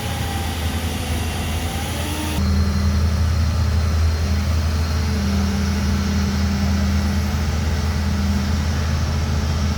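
A large engine running steadily with a low drone. About two and a half seconds in, the sound changes abruptly, as at a cut, and a steady hum joins it.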